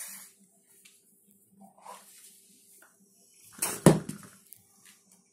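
A single short thump with a rushing rustle about three and a half seconds in, over a faint steady hum.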